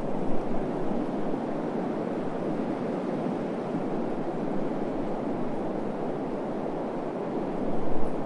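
Wind blowing across the desert: a steady rushing noise, with low buffeting gusts on the microphone just after the start and again near the end.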